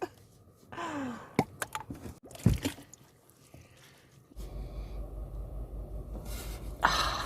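A few light clicks and a knock from handling, then a steady low hum comes on about four seconds in, and a sharp breath is drawn in near the end.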